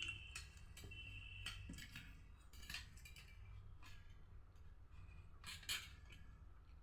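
Quiet eating sounds: a few scattered soft clicks and taps of tableware, the strongest near the end.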